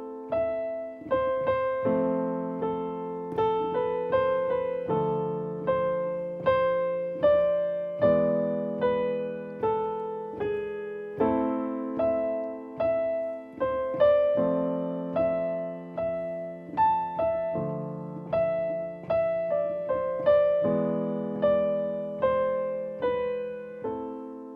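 Piano improvisation in A minor: the left hand holds chords that change about every three seconds while the right hand plays a melody of single notes from the scale over them. The last chord dies away near the end.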